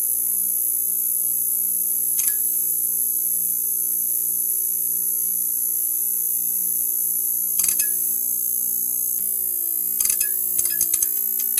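Neon sign buzzing: a steady electrical hum under a high hiss, broken by short bursts of crackling clicks about two seconds in, again past the middle, and in a cluster near the end.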